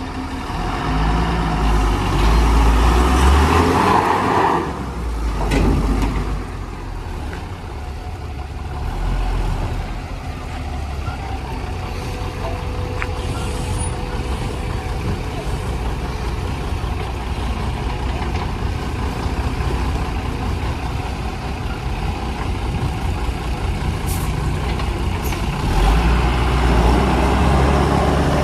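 Heavy diesel engines of a backhoe loader and a truck running steadily, with loud revving surges near the start and again near the end as they work under load.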